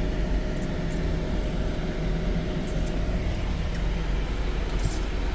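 Motor vehicle running, a steady low rumble with a faint even hum.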